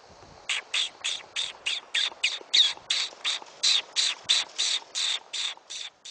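A rapid, even series of about twenty short, high-pitched squeaks, roughly three a second: a squeaking predator call used to bring a coyote in.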